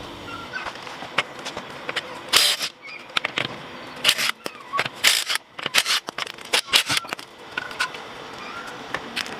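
Irregular clicks, clinks and short scrapes of hand tools and metal brake parts being handled during brake work on a van's front wheel, with a few louder knocks between about 2 and 6 seconds in.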